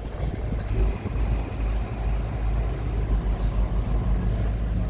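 Heavy diesel engine of construction machinery running steadily with a deep, even rumble.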